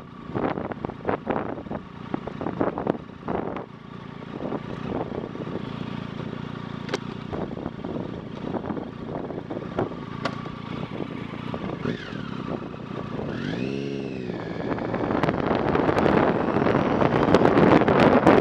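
Riding noise picked up by a bike-mounted microphone: a stream of clicks and rattles with rushing wind on the microphone that eases off and then builds again towards the end. About 14 seconds in there is a brief pitched sound that rises and falls.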